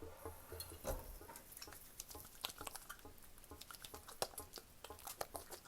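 Wet hands being lathered with dish soap: a quick, irregular run of small squishy clicks and crackles.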